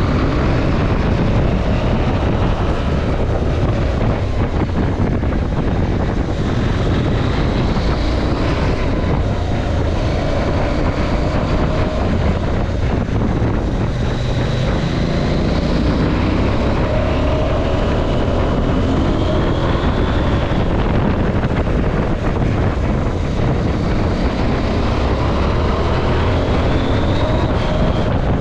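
KTM 790 Adventure's parallel-twin engine pulling through the bends, its pitch rising and falling several times as it accelerates and eases off. Heavy wind rush on the camera's microphone runs underneath.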